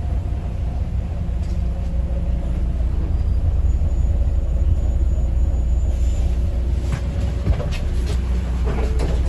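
Bus heard from inside the cabin: a steady low engine and road rumble, with a few short rattles and knocks in the last few seconds.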